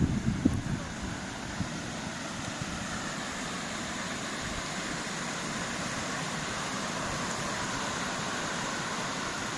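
Steady rush of falling or flowing mountain water, with a few low gusts of wind hitting the microphone in the first second.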